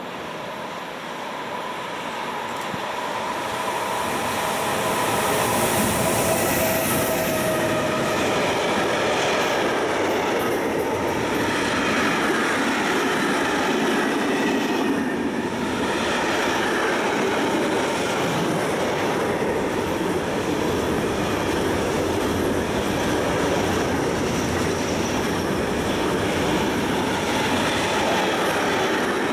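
Electric locomotive hauling a long intermodal freight train of container and tank wagons, passing close at speed. The sound grows over the first few seconds as it approaches, with a whining tone, then holds as a steady noise of wagon wheels running on the rails.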